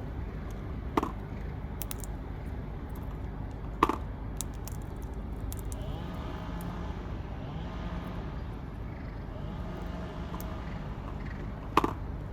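Steady rumble of distant road traffic, with a vehicle engine passing in the middle. Three sharp clicks or knocks stand out: about a second in, near four seconds, and near the end.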